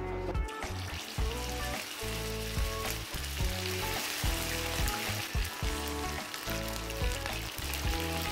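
Marinated chicken pieces sizzling as they deep-fry in hot oil in a pan, a dense continuous crackling hiss. Background music with a steady beat plays underneath.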